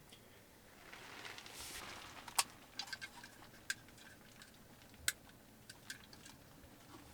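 Faint, scattered clicks and taps, two of them sharper about two and a half and five seconds in, with a soft rustling hiss in the first couple of seconds.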